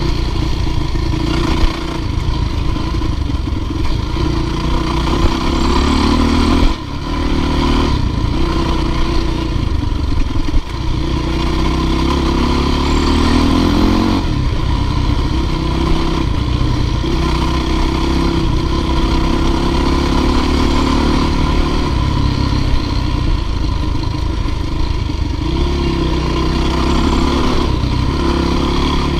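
Dirt bike engine running continuously, its revs rising and falling a little, with a few short knocks about 2, 7 and 11 seconds in.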